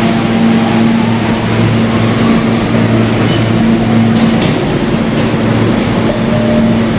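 Kawasaki R160B subway car with Siemens propulsion running between stations, heard from inside: a steady rumble of wheels on rail under a low electric motor hum. There is a single click from the wheels about four seconds in.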